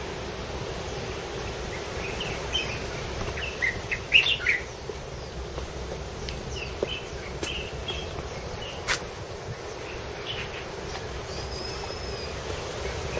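Small birds chirping in short, scattered calls, busiest about four seconds in, with one thin whistle near the end, over a steady outdoor background hiss. A single sharp click about nine seconds in.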